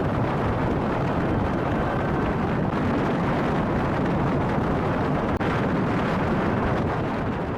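C-17 Globemaster III's four turbofan jet engines running at high takeoff power: a loud, steady, deep rumbling noise that starts to fade near the end.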